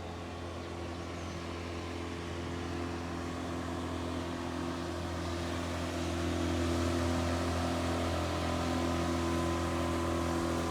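A motorboat's engine running as the boat passes, a steady drone that grows louder over the first several seconds and then holds.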